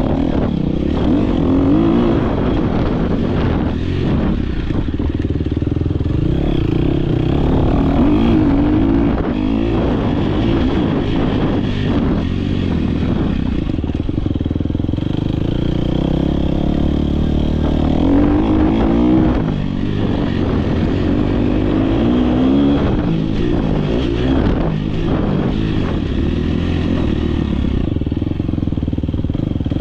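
Dirt bike engine at race pace, heard from an on-board camera: it revs hard and drops again over and over as the rider works the throttle and gears, with quick rising sweeps in pitch and brief dips in between.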